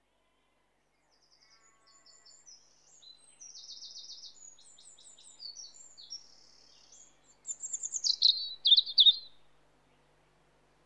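Songbird singing a varied run of high chirps and quick trills, growing louder near the end before it stops.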